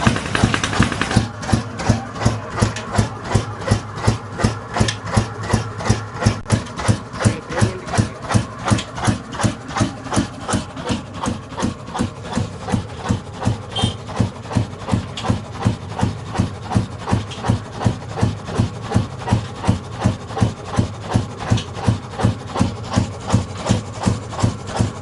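Old 25 HP black diesel engine running a tube-well pump, firing at a slow, even beat of about two strokes a second. A brighter hiss drops away about a second in.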